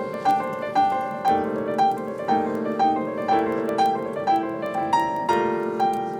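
Piano music: a steady, evenly paced pattern of repeated notes over held lower chords.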